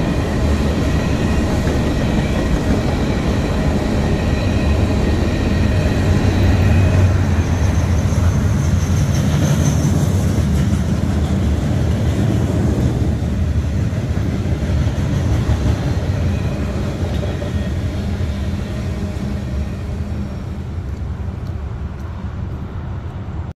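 Cars of a manifest freight train rolling past: the steady rumble and clatter of steel wheels on rail, easing off over the last few seconds as the end of the train goes by.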